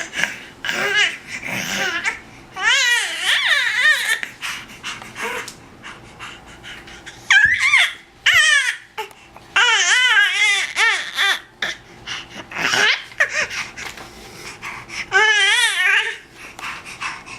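Three-month-old baby's excited vocalising: several high-pitched squeals and coos that waver up and down in pitch, coming in bursts with short pauses between.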